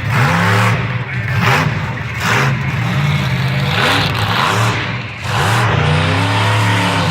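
Monster truck engine revving hard and repeatedly, its pitch rising and falling every second or so.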